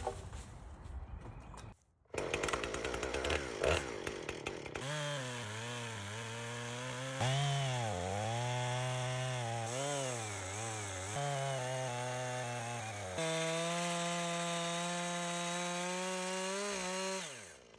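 Chainsaw on a chainsaw mill running under load while ripping a log into slabs. Its engine pitch dips and recovers repeatedly in the cut, then holds a higher, steady pitch and falls away near the end as the throttle is let off.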